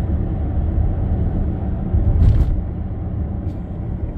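Steady low rumble of a moving car's road and engine noise, with a brief louder swell about two seconds in.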